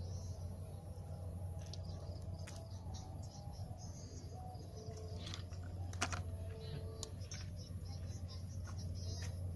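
Faint outdoor ambience: a low steady hum with faint high chirping calls and scattered small sharp clicks, the sharpest about six seconds in.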